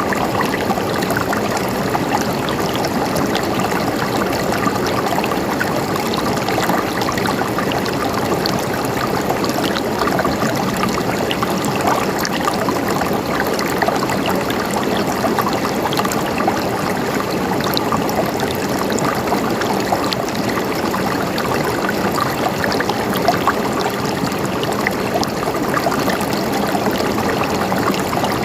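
River water flowing steadily over rocks, a continuous rushing with fine splashing and burbling.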